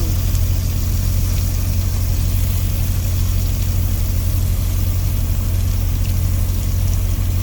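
Semi truck's diesel engine idling, a steady low drone heard inside the cab.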